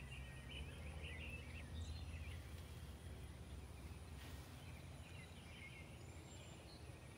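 Faint outdoor birdsong: small birds chirping and twittering in short, quick phrases, twice, over a steady low rumble of background noise.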